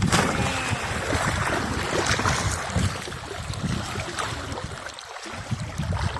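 Wind buffeting the microphone over the sound of a small boat on water, with a heavy low rumble and scattered knocks.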